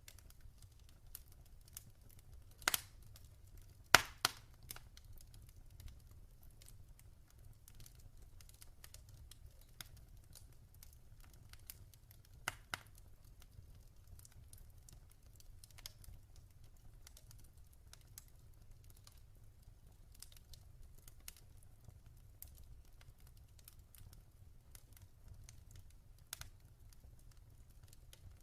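Wood fire crackling in a fireplace: scattered small crackles with a few louder pops, the loudest about four seconds in, over a low steady rumble.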